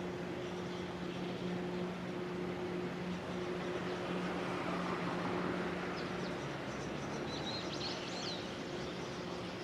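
Quiet trackside background: a steady low hum and hiss, with a small bird chirping a few times about six to eight seconds in.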